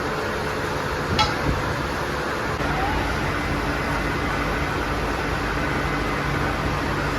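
Steady din of steel-chain factory machinery running, with one sharp metallic clank about a second in and a change in the hum about halfway through.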